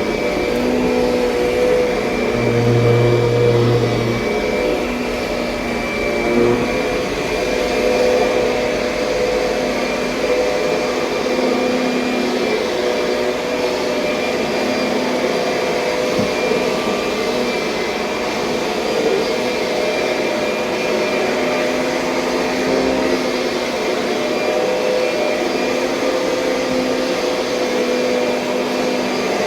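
2007 Kirby Sentria upright vacuum cleaner running steadily while vacuuming, its motor giving an even, continuous hum.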